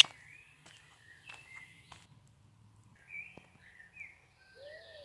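Birds chirping in woodland: scattered short, high calls, with a few sharp clicks, the loudest right at the start.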